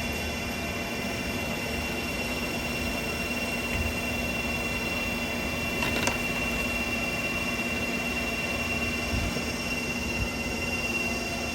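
Steady whirring drone of cryptocurrency mining rigs' cooling fans, with a constant high fan whine and a low hum over it. A brief click about halfway through.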